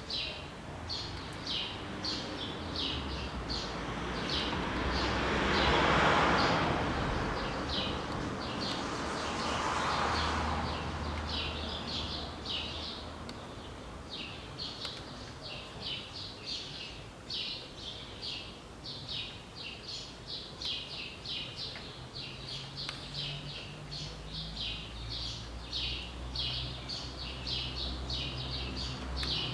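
Small birds chirping in quick repeated bursts. Two swells of rushing noise rise and fade about six and ten seconds in, over a low steady hum.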